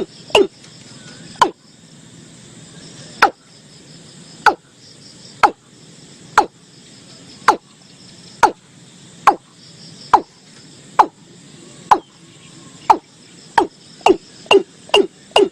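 Watercock (Gallicrex cinerea) calling: a series of short, sharp notes, each falling steeply in pitch, at first about a second apart and quickening toward the end. Crickets or other insects chirp faintly in the background.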